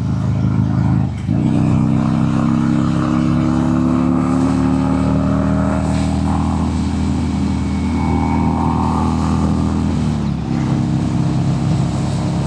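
Harley-Davidson Sportster 883 V-twin engine running under way, its note climbing slowly as it pulls. The engine note dips briefly about a second in and again just after ten seconds, then carries on.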